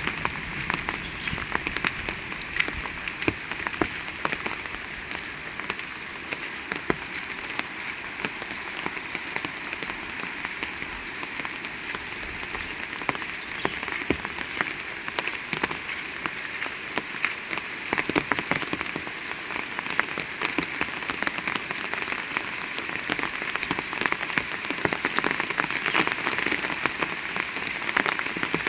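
Heavy rain falling steadily, with a dense patter of sharp, close drop impacts over the continuous hiss.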